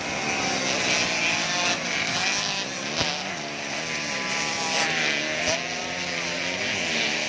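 Several 85cc two-stroke motocross bikes racing together, their engine notes overlapping and rising and falling as the riders rev and shift. There is a brief sharp knock about three seconds in.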